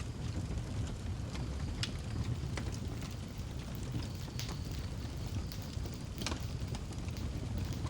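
Wood fire burning in a fireplace: a steady low rumble with scattered crackles and a few sharp pops.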